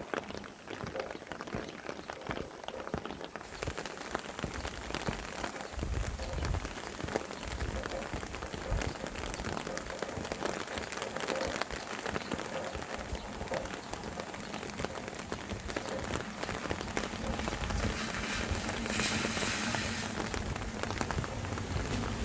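Steady rain falling, with many separate drops ticking on a surface. Wind joins as a low rumble from about six seconds in, and the rain hiss swells briefly near the end.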